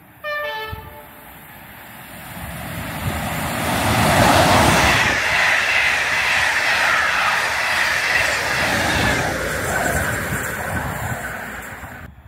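Class 86 electric locomotive sounds a brief two-tone horn, a higher note then a lower one, as it approaches. It then passes at speed hauling a rake of coaches: the rush of wheels and rail noise builds, is loudest about four to five seconds in, and fades away near the end.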